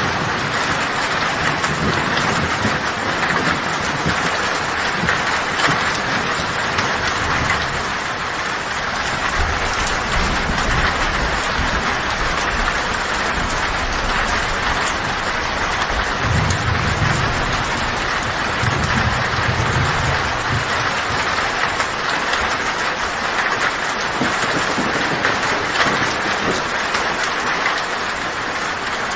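Heavy rain drumming steadily on a tin (corrugated metal) roof, with thunder rumbling low in the background, once about a third of the way in and again just past the middle.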